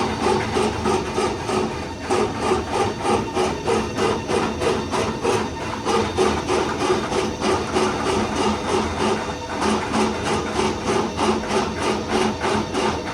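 Automatic tissue-log band saw cutting machine running, with an even rhythmic clatter of about three to four strokes a second.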